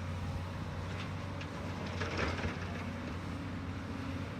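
Diesel engine of heavy equipment running steadily while loading broken asphalt into a truck, with a short rattle of material about two seconds in.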